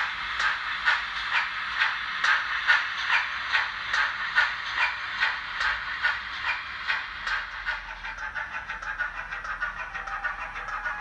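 Digital sound decoder playing Manor Class steam locomotive exhaust chuffs through a small model-railway speaker, about two beats a second, turning faster and lighter about two-thirds of the way through as the loco picks up speed. A steady tone comes in near the end.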